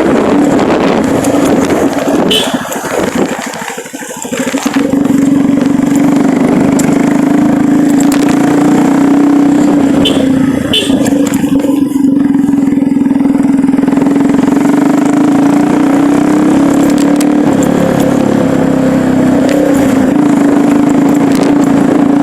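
Engine of a moving vehicle running at a steady pitch, with road and wind noise. It eases off briefly about three to four seconds in, then holds steady again.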